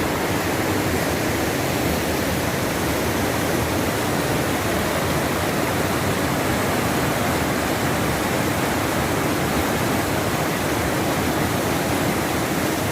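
Waterfall: a steady, even noise of falling water that does not change.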